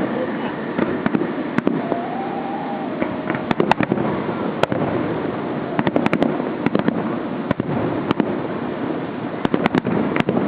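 Fireworks going off: many sharp cracks and pops in quick succession over a steady crackling hiss, with thicker clusters of reports about a third of the way in, just past halfway, and near the end.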